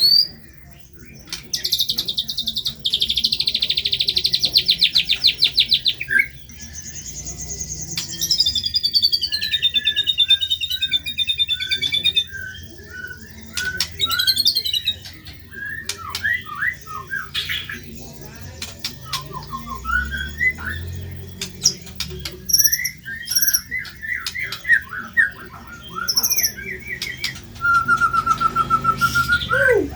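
White-rumped shama (murai batu) singing a loud, varied song. About two seconds in it gives a rapid trill lasting about four seconds, followed by a run of whistled phrases, short chirps and quick repeated notes.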